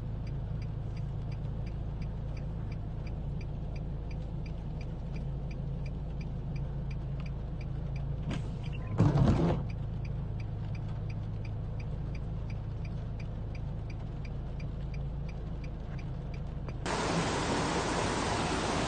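A low steady rumble with faint ticking about three times a second and a brief loud bump near the middle, then about 17 s in a sudden change to a loud, even rush of floodwater pouring from an overflowing canal.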